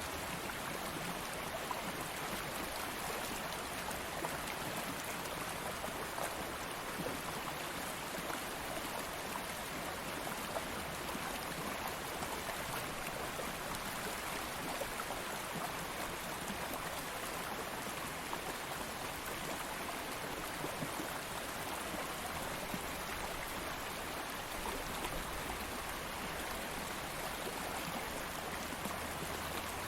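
Stream of flowing water running steadily over stones, a continuous rushing with small splashes and gurgles.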